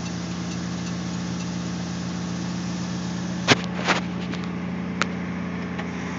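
1969 Plymouth Valiant's slant-six engine idling steadily through its newly welded exhaust and stock-type replacement muffler. A few sharp clicks come about three and a half, four and five seconds in.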